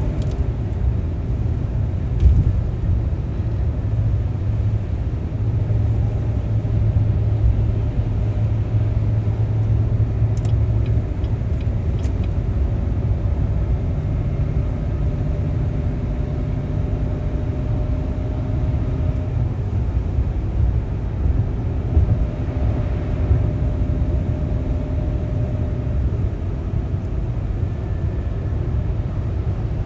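A vehicle driving: a steady low rumble of engine and road noise, with a faint steady hum and a few light clicks.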